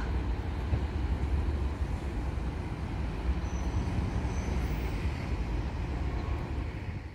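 Freight train of self-discharging hopper wagons rolling past, a steady low rumble of wheels and wagons on the track.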